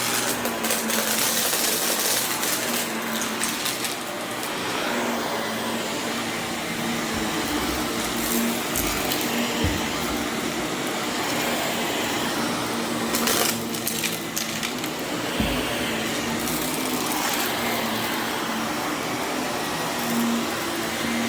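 Vacuum cleaner running steadily over berber carpet, its motor holding one even tone, with a few brief clicks and rattles of debris being picked up.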